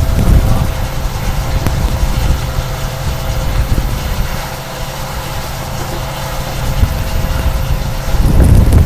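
A passenger train running, heard from on board: a steady low rumble with a faint steady hum over it. It eases a little in the middle, then grows louder about eight seconds in.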